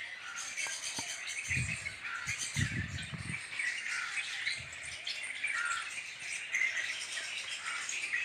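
Small birds chirping and calling in trees, many short repeated calls. Brief low rumbles come in about one and a half to three and a half seconds in.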